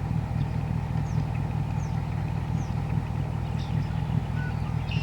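Vehicle engine idling steadily, a low even hum, with a few faint high chirps over it.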